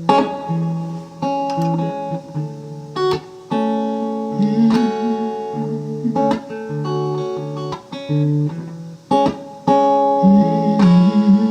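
Acoustic guitar playing strummed chords with picked bass notes, repeatedly struck and changing every second or so.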